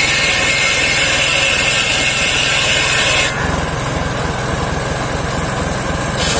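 Homemade engine-driven circular sawmill running and sawing saman wood. About three seconds in, the high hiss drops out for about three seconds while the low engine rumble grows stronger, then the hiss returns.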